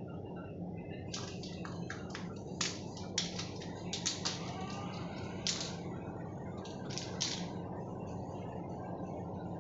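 Irregular sharp clicks and taps, coming in quick clusters for several seconds and stopping near the end, over a steady low hum.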